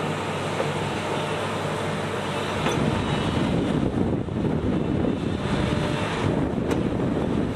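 A heavy machine's engine running steadily, getting louder about three seconds in.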